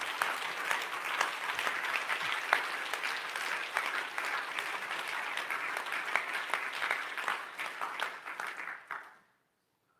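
A congregation applauding, a dense stretch of many hands clapping that dies away about nine seconds in.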